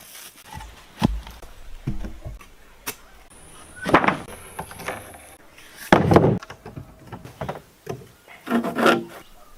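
Irregular wooden knocks and thuds with short scraping, timber being handled and struck. The loudest strikes come about four seconds in, six seconds in and near the end.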